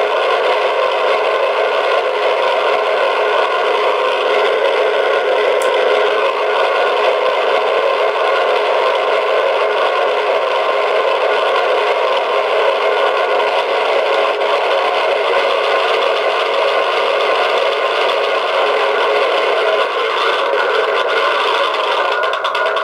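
Recorded aircraft piston-engine sound played back from a voice-recorder sound board through a small amplified speaker in a model engine, running steadily. It has no bass, typical of a tiny speaker.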